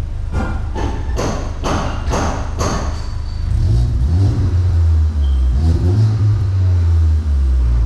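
Mk8 Volkswagen Golf GTI's turbocharged 2.0-litre four-cylinder revved through a newly fitted 3-inch Xforce cat-back exhaust and Milltek downpipe: a deep exhaust rumble that swells and rises in pitch twice in the second half. It is preceded by a run of sharp, evenly spaced thumps about two a second.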